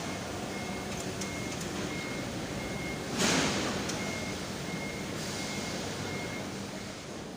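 Automatic car wash machinery running around the car, with a short high electronic beep repeating a little faster than once a second. About three seconds in comes a louder rush, like water spray or air hitting the car, which dies away over about a second.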